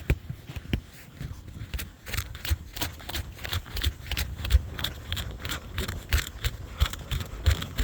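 Footsteps crunching through ice-crusted snow, a steady run of crisp crunches, each with a low thud, two or three a second.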